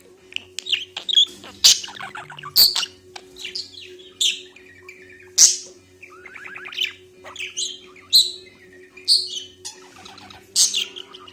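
A pet parrot making a string of short, sharp chirps and kissing smacks, roughly one every second, some calls gliding in pitch.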